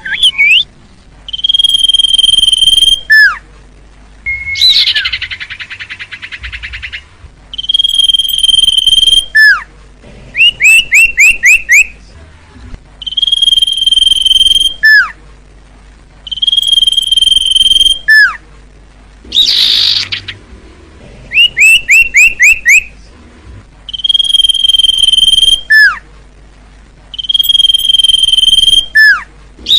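Common iora (cipoh) singing: long steady high whistles, each ending in a quick falling note, repeated about every three seconds, alternating with quick runs of short rising chirps and a harsh buzzy call.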